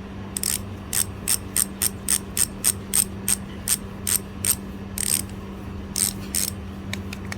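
Bicycle freehub pawls clicking as the repaired hub freewheels, a quick series of sharp ratchet clicks, about three a second, becoming more irregular toward the end.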